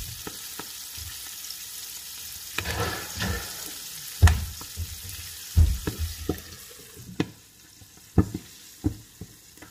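Flour-dredged pig feet frying in hot oil in a cast-iron skillet: a steady sizzle with scattered pops and knocks. About seven seconds in, the sizzle turns duller and quieter as a glass lid goes on the pan.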